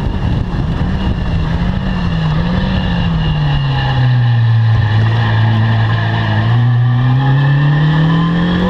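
Caterham R300 engine running under way: its revs waver, drop about three seconds in and hold low for a few seconds, then climb again near the end, over steady wind and road noise.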